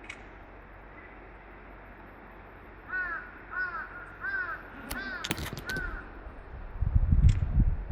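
A crow cawing five times in a steady series, each caw a short arched call. A few sharp clicks come in the middle, and a louder low rumbling noise starts near the end.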